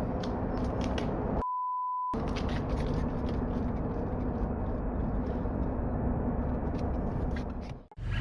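A single steady high-pitched censor bleep, about two-thirds of a second long, that briefly replaces the audio about one and a half seconds in, set in a steady rough background noise with scattered faint clicks.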